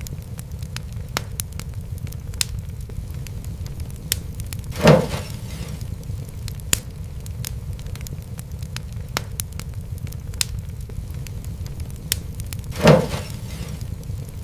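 Fireplace fire crackling: a steady low rumble of flame with scattered sharp crackles, and two louder pops, one about five seconds in and one near the end.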